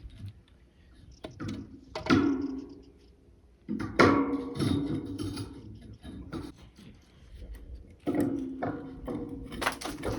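Three sharp strikes, about two, four and eight seconds in, each ringing on as a pitched tone that dies away over about a second, with a few lighter clicks between.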